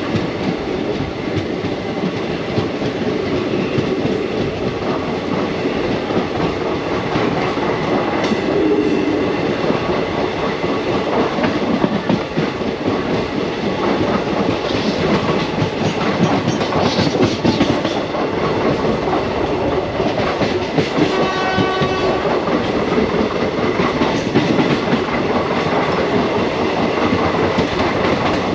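Moving passenger train heard from an open coach doorway: a steady rumble and rattle of the wheels on the track. A pitched horn sounds briefly about three quarters of the way through.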